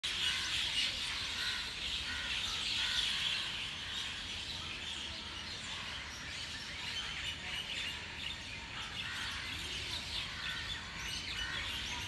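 A large flock of birds chirping all at once, a dense, unbroken chorus of short high calls over a low background rumble.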